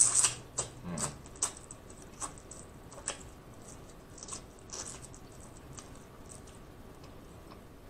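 Close-miked eating sounds: wet lip smacks and chewing clicks as peeled shrimp in seafood-boil sauce is bitten and chewed, several in quick succession at first, then sparser and fading toward the end.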